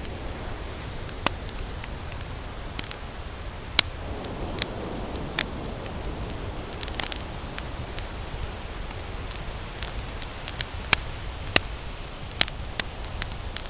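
Campfire crackling: burning wood snapping in irregular sharp pops over a steady low rumble.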